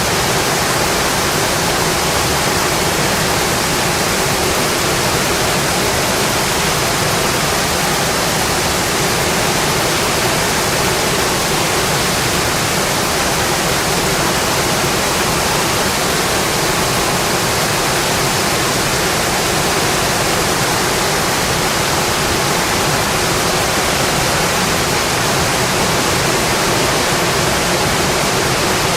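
Steady rainfall: a dense, even hiss of rain with no single drops or gusts standing out.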